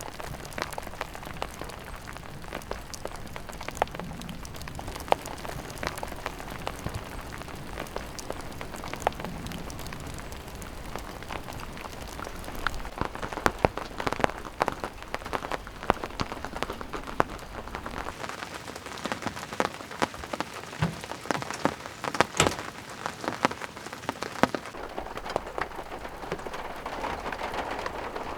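Steady rain, with many individual drops striking a surface in irregular sharp taps.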